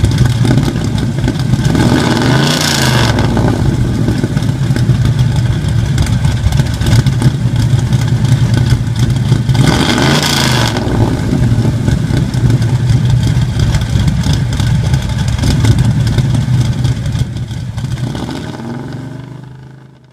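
1968 Camaro SS's 350 small-block V8 idling through its exhaust, blipped twice, about two and a half seconds in and again about ten seconds in, before the sound fades out near the end.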